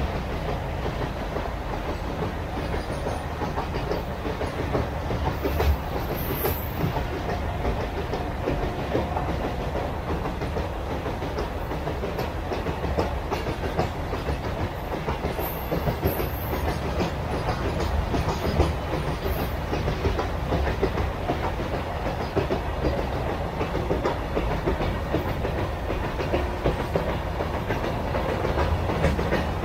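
A long Indian Railways freight train of open steel wagons passing close by. Its wheels and wagons rattle and click steadily over the track.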